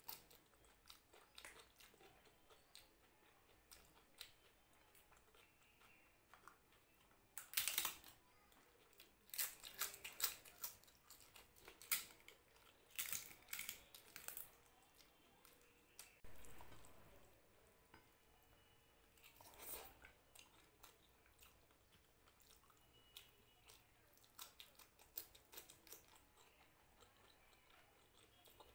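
Close-miked eating: crunchy bites and chewing of cucumber and crisp food, in several bursts with quiet pauses between them.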